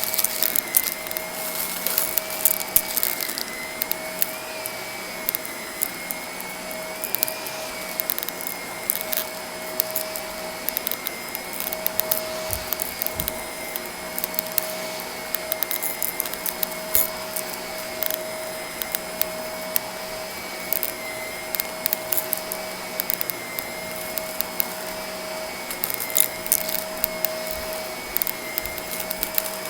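Vacuum cleaner running steadily with a constant whine, while small bits of debris crackle and rattle as they are sucked up the nozzle, more of them at the start and again near the end.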